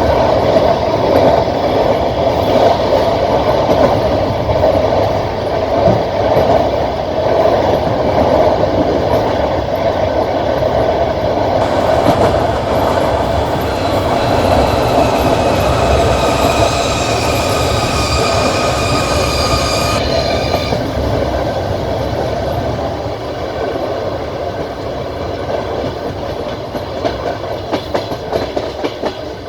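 Passenger train running on the rails, heard from a carriage window: a steady rumble and rush of the wheels. About twelve seconds in, a high whine of several tones joins it and fades out around twenty seconds. Sharper clacks of the wheels over rail joints come near the end.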